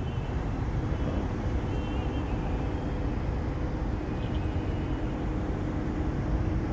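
Truck engine idling steadily with a low rumble and a faint hum. A few faint high chirps come through over it.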